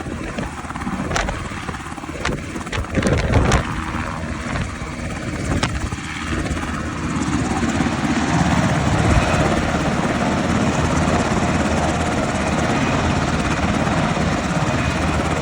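UH-60A Black Hawk helicopter landing: rotor and engine noise, gusty and uneven with sharp cracks for the first several seconds, then settling into a steadier, slightly louder run.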